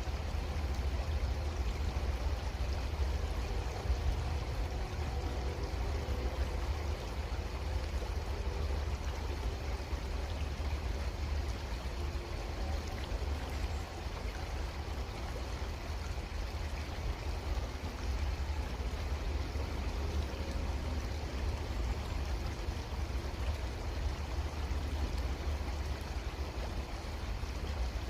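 Creek water flowing steadily, with a constant low rumble underneath.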